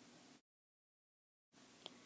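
Near silence: faint background hiss, cutting out to dead silence for about a second in the middle.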